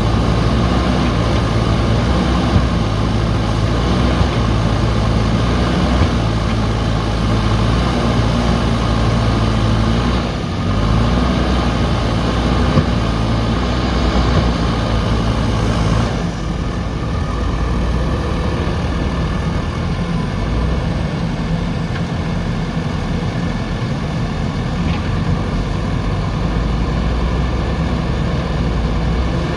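Diesel engine of a JCB backhoe loader running steadily. Its note shifts briefly about ten seconds in and changes abruptly about sixteen seconds in.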